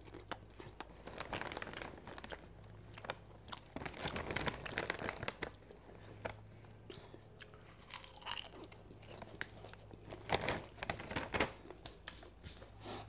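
A person chewing air-popped popcorn, with a run of irregular crunches close to the microphone. A low steady hum runs underneath.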